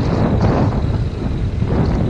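Loud wind buffeting on a GoPro Hero 5 Black's microphone as a motorcycle rides at speed: a heavy, gusty rumble that drowns out the bike.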